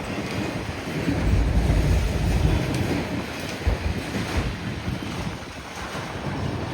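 Strong gusty wind buffeting the microphone over the rumble of a long freight train's cars rolling past, with a few knocks in the middle; the rumble eases somewhat in the second half.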